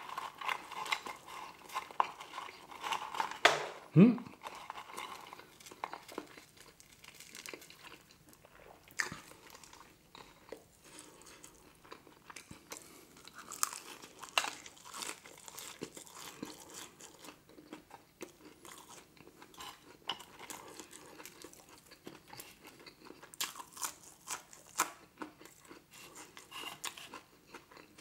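Close-miked chewing of McDonald's french fries, with wet mouth clicks and soft crunches. There is a brief hum from the eater about four seconds in.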